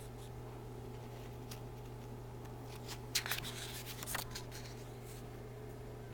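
A picture book's page being turned: a few soft paper rustles and clicks about three seconds in, over a steady low room hum.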